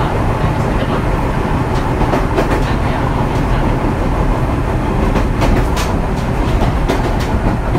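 Running noise of a Fujikyu 6000 series (ex-JR 205 series) electric train, heard inside the driving trailer car Kuha 6751: a steady rumble of wheels on rail. Wheels clack over rail joints, in clusters about two seconds in and again around five to six seconds.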